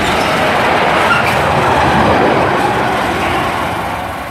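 Freight train hauled by a Class 66 diesel locomotive running through the station at speed, its wagon wheels rumbling and clattering on the track. The sound is loudest about one to two seconds in, then eases off slightly as the train moves away.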